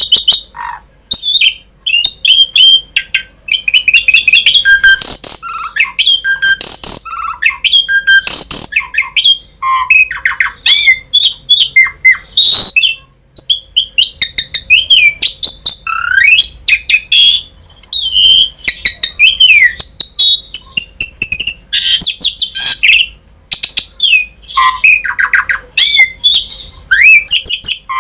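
Asian pied starling (jalak suren) singing a long, varied song: rapid chirps, rising and falling whistles and harsh squawky notes run together, pausing briefly about halfway through.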